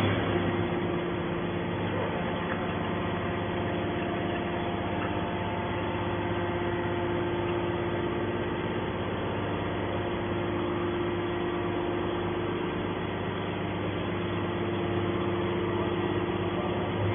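Hydraulic scrap metal baler's power unit running steadily, a constant machine hum with several held tones.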